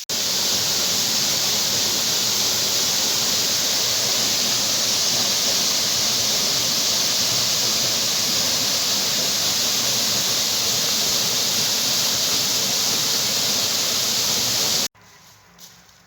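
Waterfall: a steady rush of falling water. Near the end it cuts off suddenly and leaves a much quieter background.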